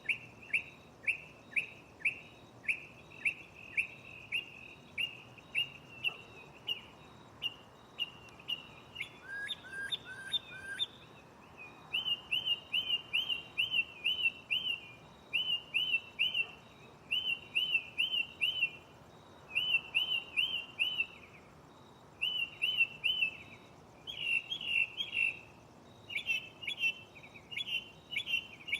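Northern mockingbird singing, repeating each phrase several times before switching to a new one: a string of single chirps about twice a second, then a brief lower phrase about ten seconds in, then quick groups of three or four notes from about twelve seconds in.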